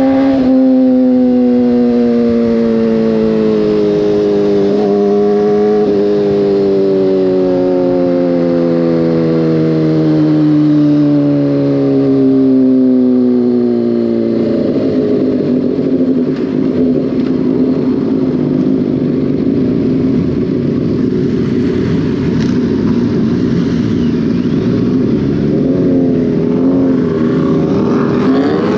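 Motorcycle engine on the ride, its pitch falling steadily over the first half as it rolls off and slows, with a couple of brief blips, then running at low steady revs before revving up again near the end.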